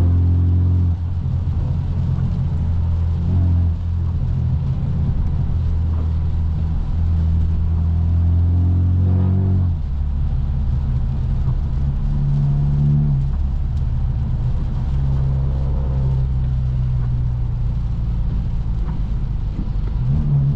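Straight-piped, Stage 2+ tuned BMW F30 328i's turbocharged four-cylinder engine and exhaust droning while the car drives. The drone steps to a different pitch about a second in, again near four seconds, and once more near ten seconds as the throttle or gear changes.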